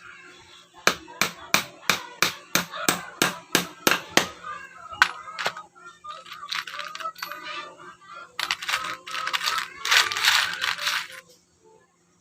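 A quick run of sharp knocks, about three a second, stopping about four seconds in, followed by a few seconds of rough scraping noise that cuts off near the end.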